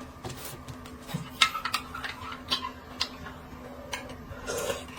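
Irregular light clicks and taps of eating utensils against dishes and bowls, several scattered sharp ticks.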